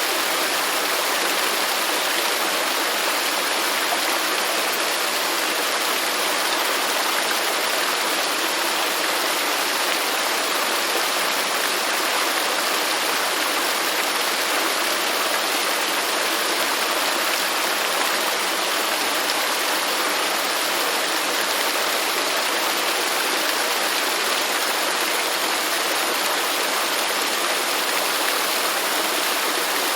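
Waterfall: falling water rushing steadily, an even hiss with little low rumble.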